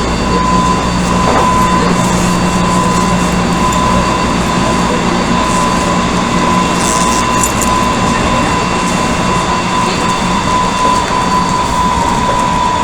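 Odakyu 1000 series electric train heard from inside a car while running along the line: a steady rumble of the running gear with a clear whine. The whine drops slightly in pitch near the end as the train eases its speed.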